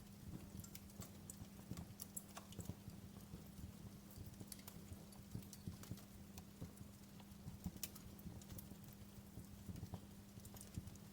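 Wood fire crackling: irregular sharp snaps and pops over a faint, steady low hum.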